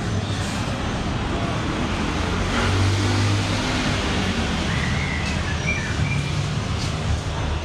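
Motor vehicle engine running steadily over road noise, a little louder about three seconds in.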